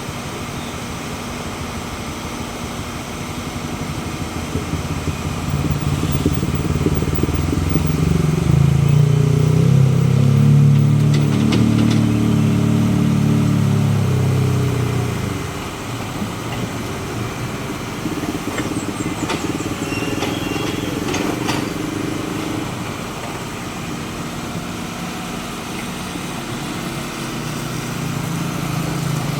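Motor vehicle engines running on a road, with one engine's drone building up about six seconds in, loudest around ten seconds, then dying away about fifteen seconds in. There are a few sharp clicks midway.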